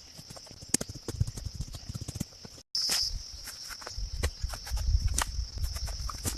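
Rapid, irregular knocks and scuffs over a steady high buzz, broken by an abrupt cut a little under three seconds in.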